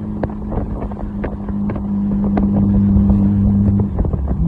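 Nissan GT-R engine heard from inside the cabin, holding a steady note that gets louder, then dropping near the end and picking up again at a lower pitch, like an upshift. Short clicks and knocks from the road run underneath.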